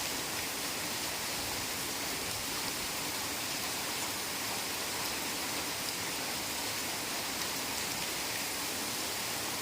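Heavy rain falling steadily in a forest: an even hiss with faint scattered drop taps and no change in strength.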